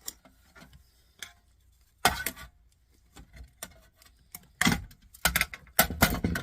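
A part of a stereo's CD player being forced out and broken by hand: small clicks, a loud crack about two seconds in, then a cluster of loud cracks and knocks near the end.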